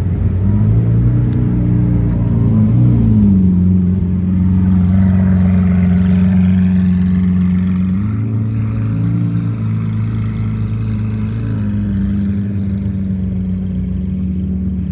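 Lamborghini Countach LPI 800-4's V12 engine running at low revs with a steady, deep drone. Its pitch falls slightly about three seconds in and rises again about eight seconds in.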